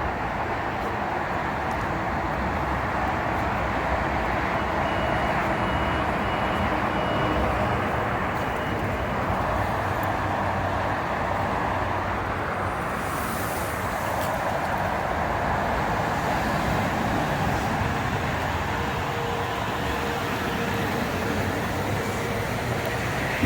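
Steady road traffic noise, an even rush of passing vehicles.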